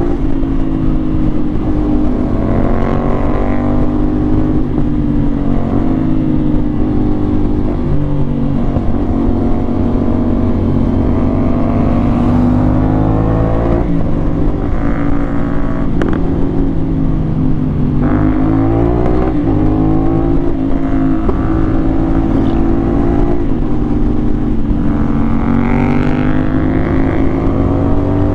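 CFMoto 450SR's parallel-twin engine running under way. Its pitch climbs and drops several times as it revs up through the gears and shifts.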